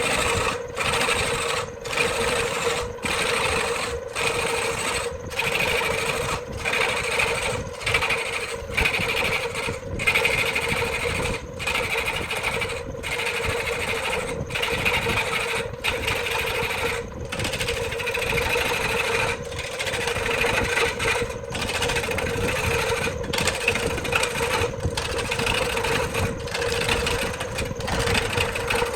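A woodworking power tool running steadily at one constant pitch, with a regular faint pulsing about every three-quarters of a second.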